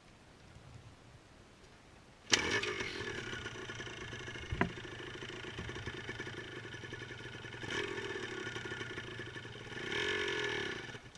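Motorcycle engine starting suddenly about two seconds in and running unevenly, with two rises in revs, then cutting out near the end: a stall, which the coach puts down to too little throttle.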